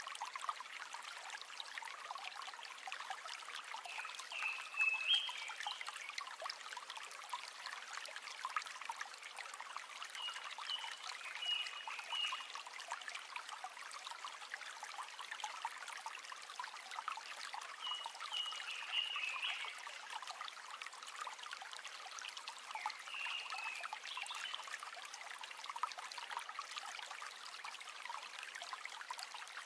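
River water running and trickling in a steady babble. A short animal call, a brief chirping phrase, comes in about every six or seven seconds.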